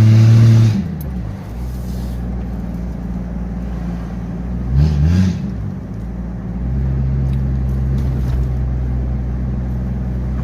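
Jeep Grand Cherokee ZJ's 4.0 straight-six on a new muffler, heard from inside the cabin with the windows down. The engine pulls up in revs, eases off about a second in, rises briefly in the middle, then settles into a steady cruising drone.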